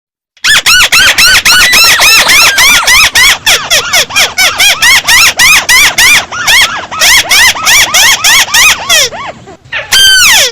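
Loud, volume-boosted recording of the bird call known in Vietnamese as 'chim mắt xéo': a rapid run of rising-then-falling notes, about three a second, ending in a few longer falling notes.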